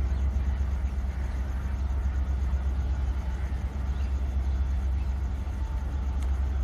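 Steady low rumble of a locomotive-hauled passenger train approaching along the tracks.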